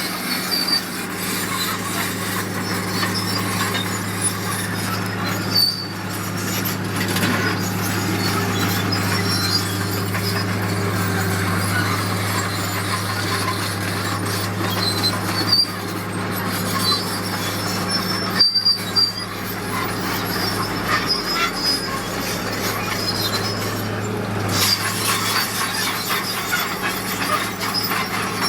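Heavy earthmoving machinery's diesel engine running steadily, with high metallic squeaks and rattles over it.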